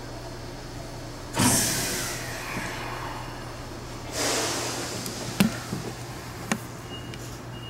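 Inside an electric train's cab: a steady low hum, broken by two sudden hisses that each fade over about a second, then a few sharp clicks and a faint short beep near the end.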